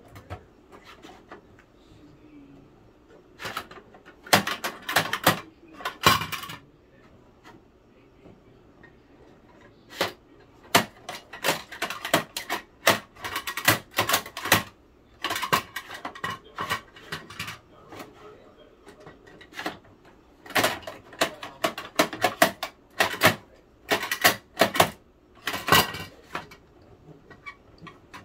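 Hard plastic clicking and clattering of a Bruder toy garbage truck and its plastic bins being handled, in three spells of rapid clicks with short quiet gaps between.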